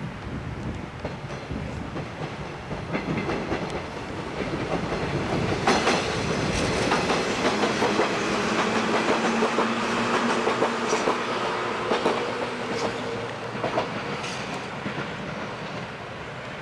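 Train passing on the line, its wheels clicking over the rail joints. It grows louder, is loudest in the middle with a steady hum underneath, then fades away.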